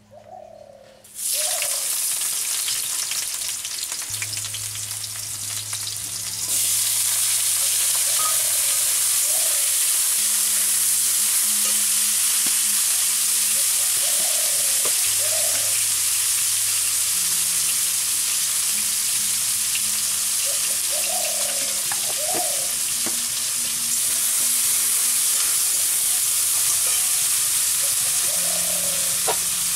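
Chopped vegetables frying in hot mustard oil in a metal wok (kadai), a dense high sizzle that starts suddenly about a second in as they go into the oil and grows louder around six seconds in, with stirring by a metal spatula.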